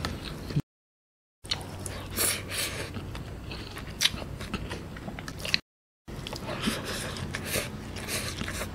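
Close-miked chewing and eating of rice and coconut-milk curry by hand: soft wet clicks and crackles of a mouthful being chewed. The sound drops to dead silence twice for a moment.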